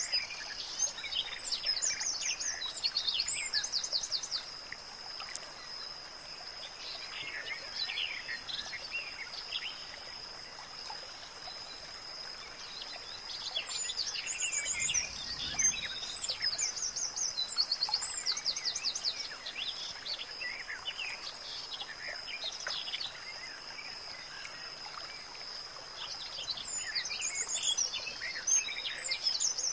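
Birds chirping and trilling in scattered bursts, over a steady high-pitched tone and a soft even hiss.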